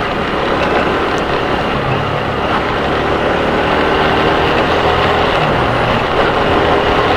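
Motorcycle riding noise picked up by a helmet-mounted action camera's external microphone: a steady rush of wind and road noise over the low hum of the engine, loud enough that the rider says she has to almost shout to be heard.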